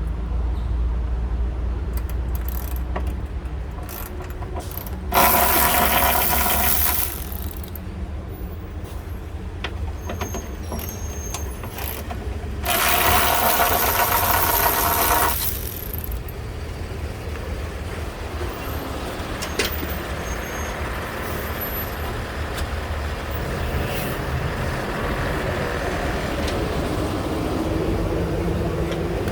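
A power tool on the car's bolts runs in two bursts of about two seconds each, one about five seconds in and one about thirteen seconds in. Between them there are scattered clicks of tools and parts over a low steady shop rumble.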